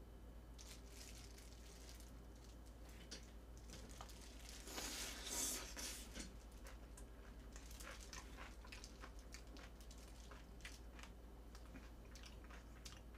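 Close-miked eating of a long strip of spicy cabbage kimchi: wet, crunchy chewing and mouth clicks. There is a louder, denser stretch about five seconds in as the strip goes into the mouth. A faint electrical hum runs underneath.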